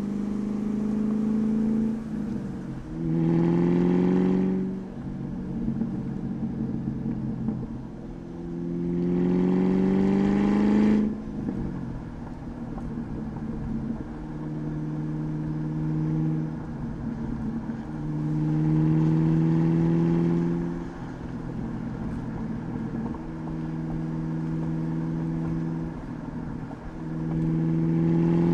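2003 Ford Mustang SVT Cobra's supercharged 4.6-litre V8 through a Bassani cat-back exhaust, cruising with about four short pulls where the engine note rises and gets louder for a couple of seconds each, between steadier stretches.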